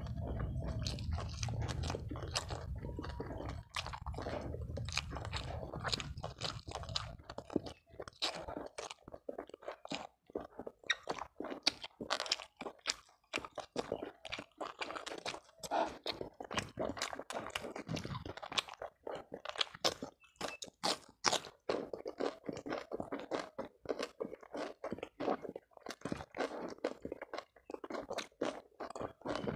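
A person chewing and crunching food with the mouth, many irregular crisp crunches and wet clicks. A low hum underlies the first few seconds and stops about seven seconds in.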